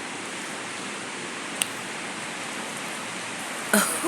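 Steady rain falling, an even hiss. There is a brief sharp click about one and a half seconds in and a short louder sound near the end.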